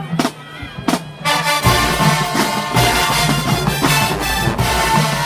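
High school marching band: a couple of single drum strokes, then about a second in the full brass section and drumline come in together and keep playing loud.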